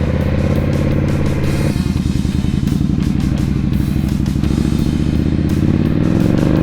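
2017 Indian Scout V-twin engine running while being ridden, dropping back about two seconds in and rising in pitch near the end as it accelerates.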